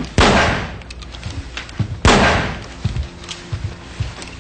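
Two loud handgun shots about two seconds apart, each dying away over about a second.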